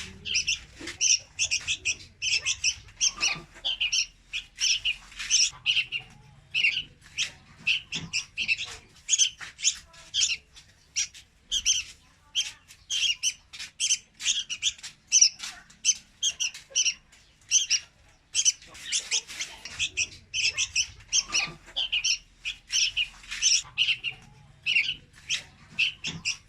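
Young red-whiskered bulbul calling: quick runs of short, high calls, a few a second, with brief pauses between runs.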